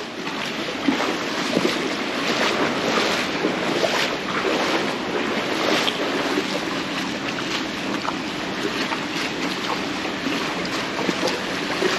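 Shallow mountain stream rushing, with irregular splashes and knocks through the steady water noise, and wind buffeting the microphone.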